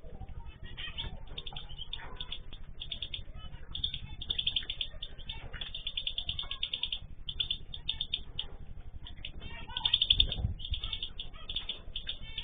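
A flock of small cage birds, a mix of zebra finches, canaries, goldfinches and cockatiels, chirping continuously in quick, overlapping high calls. A louder low thump comes about ten seconds in.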